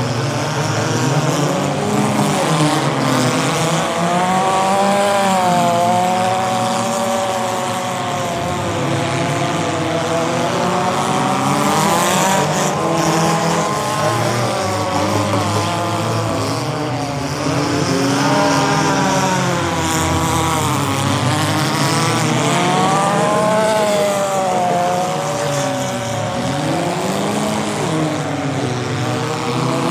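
Engines of several compact derby cars revving hard and easing off as they race around a dirt figure-8 track, the pitch rising and falling over and over, with more than one car heard at once.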